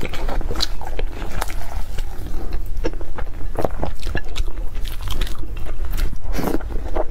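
Close-miked mukbang eating: chewing and biting with many short, wet mouth clicks and smacks, over a steady low hum.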